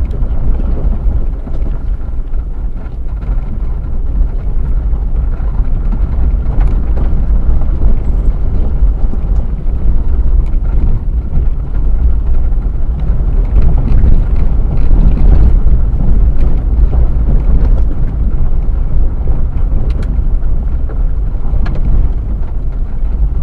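An off-road vehicle driving, with a loud, steady rumble and wind buffeting the microphone, and a few short knocks along the way.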